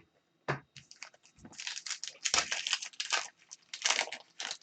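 Trading cards and their plastic sleeves or pack wrapper being handled: a couple of light clicks, then bursts of crinkly rustling.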